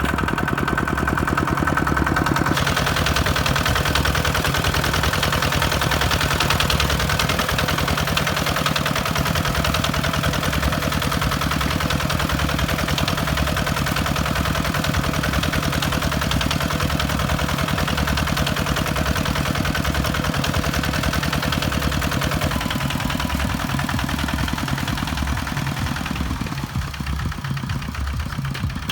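Kubota tractor's diesel engine running steadily with a regular low pulsing beat, plowing soil. A rushing noise joins in higher up about two seconds in.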